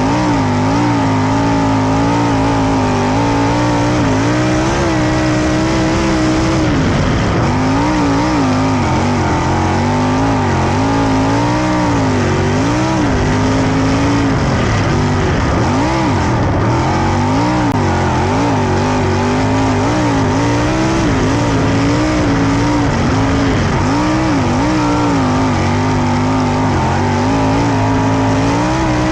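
Sprint car engine running hard in a race on a dirt oval, its pitch rising and falling every second or two as the throttle comes on and off through the turns.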